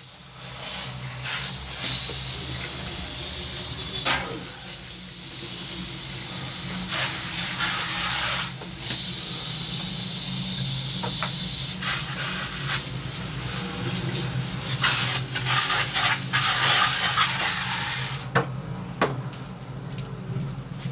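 Water running in a steady hissing stream that swells and fades, with a few sharp knocks, while air-conditioner parts are being washed.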